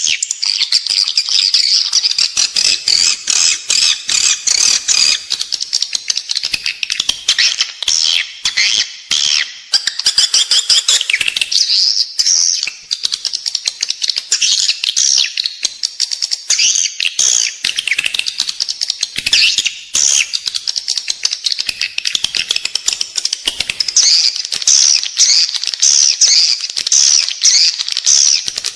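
Edible-nest swiftlets twittering in a dense, continuous chorus of rapid high chirps and clicks. It is a recorded swiftlet lure call of the kind played inside a swiftlet house to draw the birds in to roost and nest.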